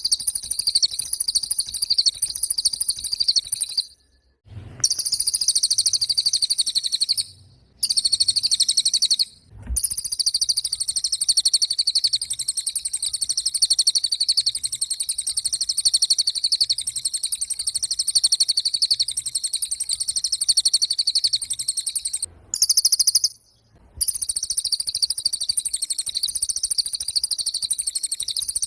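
A small songbird known locally as cililin singing in full voice: a fast, continuous, very high-pitched chattering trill that stops abruptly a few times and picks straight back up.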